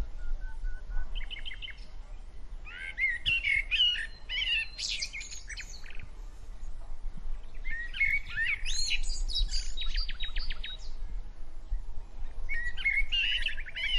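Small birds chirping and warbling in several separate bouts, with a quick run of repeated notes about two-thirds of the way through, over a faint low rumble.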